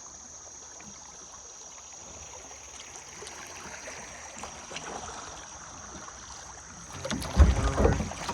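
Kayak paddle dipping in river water, with a steady high insect buzz. About seven seconds in comes a much louder low rumble and knock, likely the paddle or hull handled close to the microphone.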